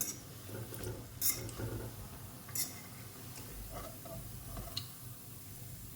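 A handful of light clicks and taps from a metal strainer spoon against cookware as fried snacks are taken out of the oil, scattered a second or so apart and mostly in the first half.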